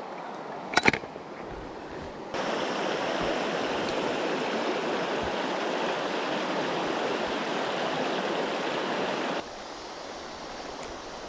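Mountain stream rushing, much louder for about seven seconds in the middle, where it starts and stops abruptly; a short knock about a second in.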